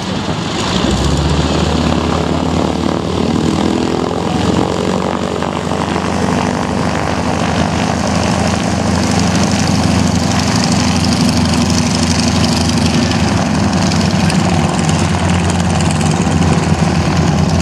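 Aircraft engine drone that grows louder about a second in, its pitch sliding for a few seconds and then holding steady.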